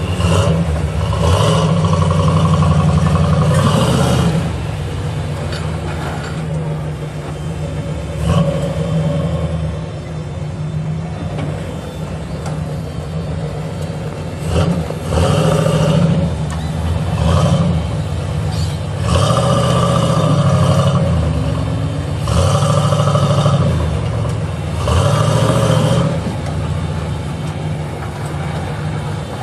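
Off-road 4x4's engine running, revved up in about seven short bursts a few seconds apart, the longest near the start.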